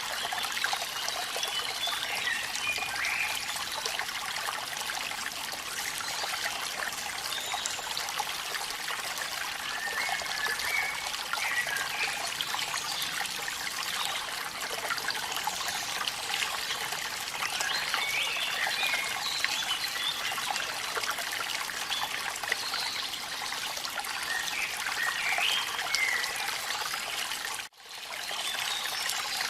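Waterfall water splashing and trickling steadily, with faint chirping calls from a small animal now and then. The sound drops out for a moment near the end.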